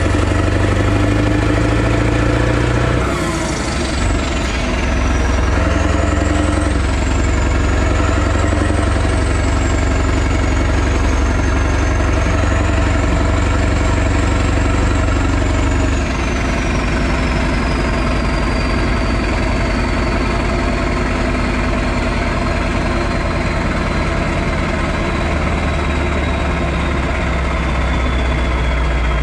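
Straight-piped V8 diesel truck engine running. Its note changes about three seconds in and again about halfway through, with a thin high whistle above it that wavers and then slowly falls.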